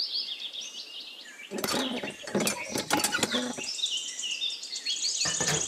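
Birds chirping, ending in a fast trill, with a run of light clinks and knocks about one and a half to three and a half seconds in and again near the end.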